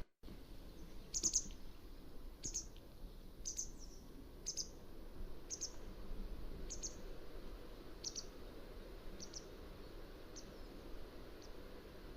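Mountain wagtail calling: a series of about ten short, high chirps, roughly one a second, growing fainter toward the end, over a steady background hiss.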